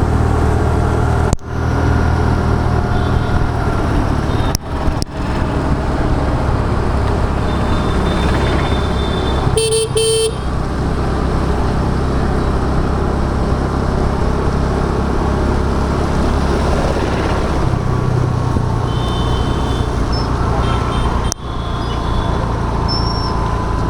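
Steady engine and road noise of a scooter ride through city traffic, with a vehicle horn giving two short honks about ten seconds in.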